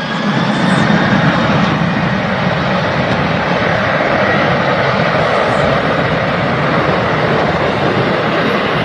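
Aircraft engine at takeoff power on the takeoff roll. It swells over the first second to a loud, steady run, with a faint whine rising in pitch early on.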